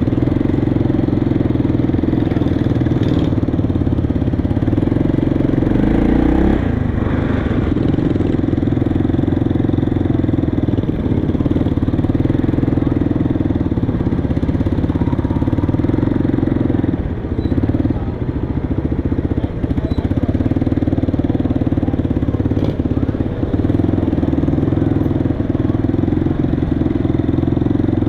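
Motorcycle engine running steadily close by, with a fast, even pulse.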